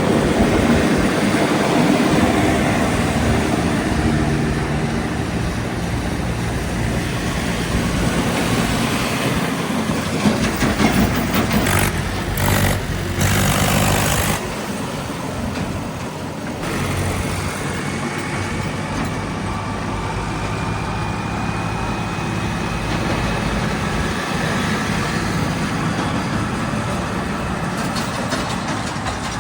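Heavy diesel vehicle engines running, with a loud rushing noise for a couple of seconds around the middle.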